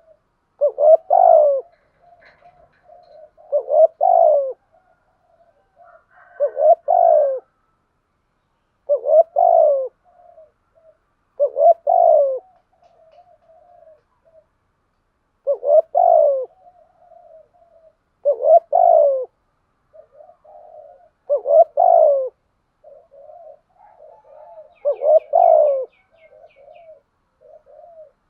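Spotted doves cooing: a loud coo phrase about every three seconds, with softer low cooing running between the phrases. A faint high chirping comes in near the end.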